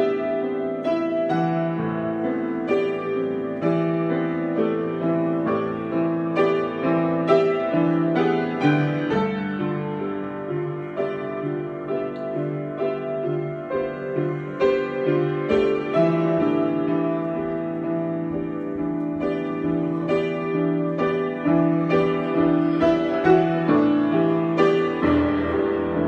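Solo piano improvisation: chords and melody notes struck one after another at an easy pace.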